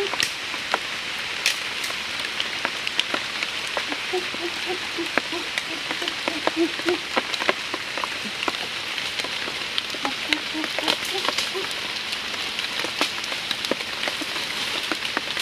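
Steady rain falling on jungle foliage, with many single drops ticking on leaves. Several runs of short, low, repeated notes from an animal, a few a second, come through the rain.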